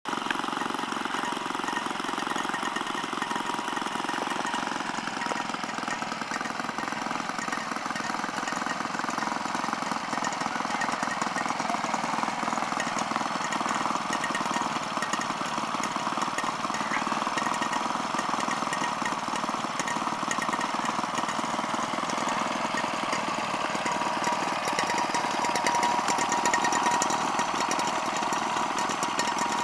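Several old stationary engines running steadily, with a rapid, even beat.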